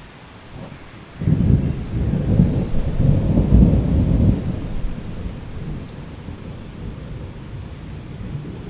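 Heavy steady rain with a roll of thunder: a low rumble breaks in suddenly about a second in, stays loud for about three seconds, then slowly dies away under the rain.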